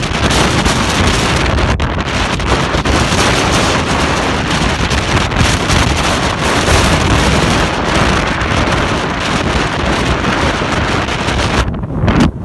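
Strong wind blasting the microphone: a loud, steady roar of wind noise, its hiss thinning briefly near the end.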